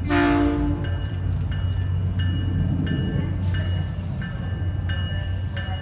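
SunRail commuter train approaching, its horn giving one short blast of under a second at the start. A steady low rumble from the train runs under it, with a higher bell-like ringing repeating on and off in the background.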